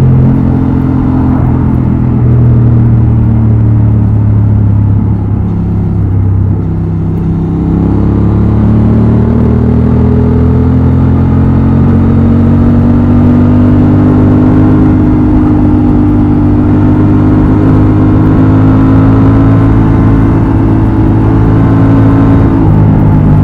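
Honda XL750 Transalp's 755 cc parallel-twin engine and exhaust running under way. It eases off briefly about five to seven seconds in, then climbs slowly in pitch for most of the stretch as the bike gathers speed, with a change near the end.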